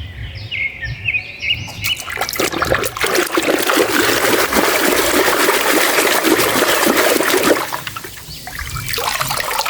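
Water spraying and splashing in a steady, dense rush, starting about two seconds in and easing off near the end.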